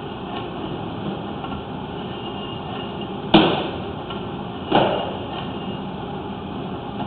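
Two sharp knocks about a second and a half apart, a little before and a little after the middle, each dying away quickly, over a steady hiss.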